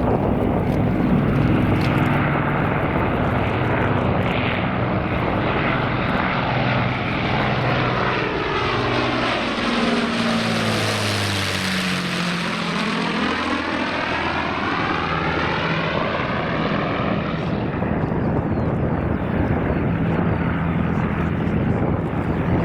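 Avro Lancaster's four Rolls-Royce Merlin V12 engines in a low fly-by. The bomber passes closest about halfway through, and the engine note drops in pitch as it goes over and away.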